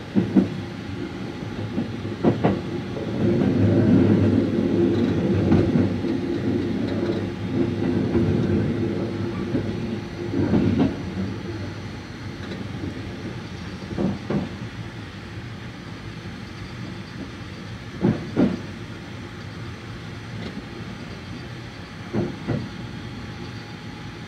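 A 285 series sleeper train running, heard from inside the carriage: a steady rumble with a double clack of the wheels over rail joints every few seconds. The rumble is loudest in the first half.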